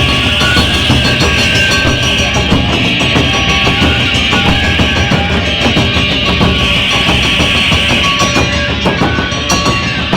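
Loud, dense live music from a Japanese festival-punk ensemble: pounding taiko drums with shamisen and held melodic tones over a steady wash of sound.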